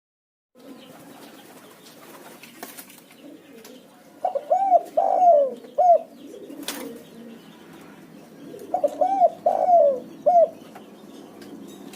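Spotted dove (terkukur) cooing as a lure call: two phrases of about four arched coo notes, a few seconds apart. A single sharp click falls between them.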